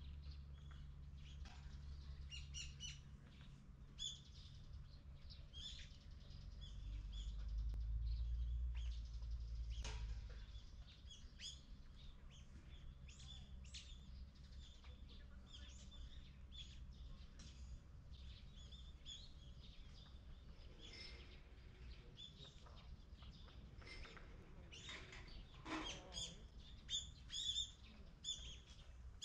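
Small birds chirping in short, repeated calls, busier near the end, over a low steady rumble that swells for a few seconds about seven seconds in.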